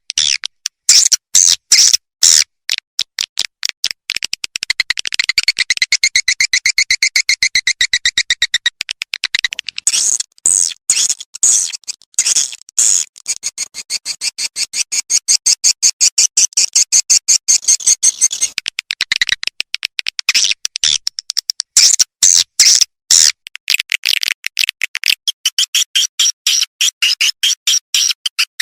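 Swiftlet lure call, a recording of swiftlet twittering played to draw swiftlets into a nesting house: fast trains of high chirps and clicks in bursts with short breaks.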